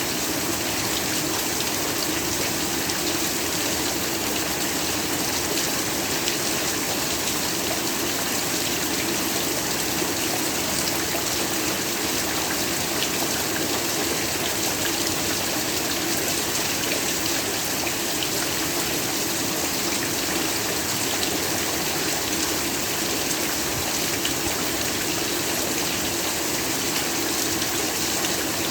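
Steady heavy rainfall: an even hiss with countless fine drop ticks, unchanging throughout.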